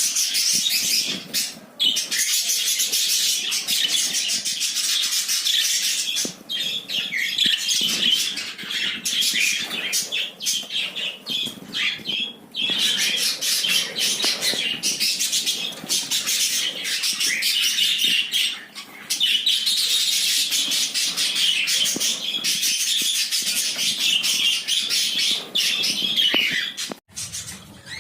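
A flock of pet budgerigars chattering and squawking without pause, a dense high-pitched twittering that dips briefly now and then and breaks off suddenly near the end.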